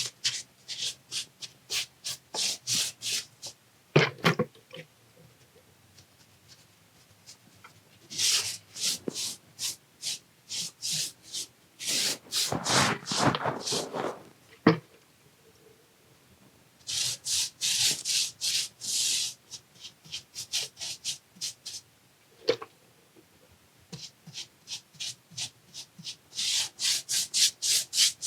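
A stiff brush scrubbing back and forth over masonry in bursts of quick strokes, about three a second, with pauses between bursts. There is a single knock about four seconds in and a longer, heavier scrape around the middle.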